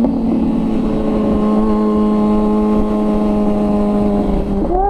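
Kawasaki ZX-6R's inline-four engine running at steady cruise, its pitch easing slowly down, then briefly rising and falling near the end, with wind noise on the microphone.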